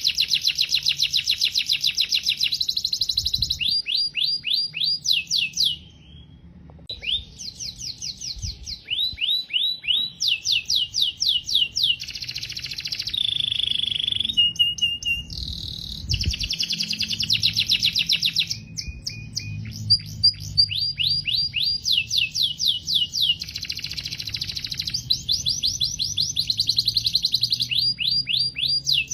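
Domestic canary singing a long, continuous song of fast trills, each a run of quick repeated notes. The trills change in speed and pitch every second or two, and there is a brief pause about six seconds in.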